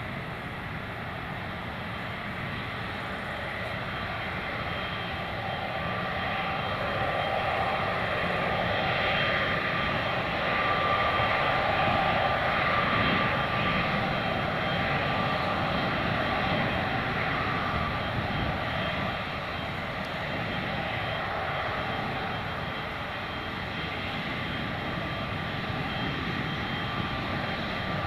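Jet engines of a Boeing 777-300ER (GE90-115B turbofans) running, a steady rushing noise with thin whining tones. It swells to its loudest about halfway through, then eases back.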